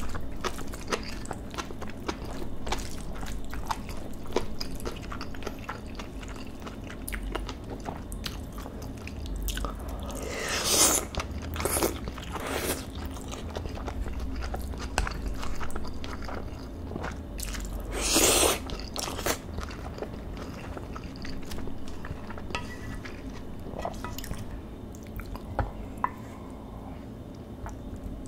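Close-miked chewing and wet mouth sounds of someone eating marinated beef bulgogi with rice, with many small clicks of a wooden spoon in a ceramic rice bowl. Two louder noisy bursts stand out, about a third and two thirds of the way through.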